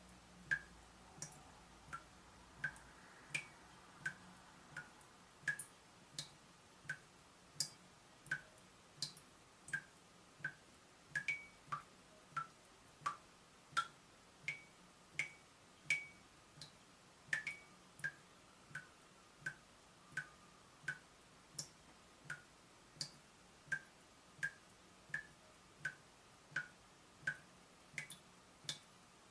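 Leaking tap dripping: single water drops plinking at an even pace, about three every two seconds, some drops higher-pitched than others.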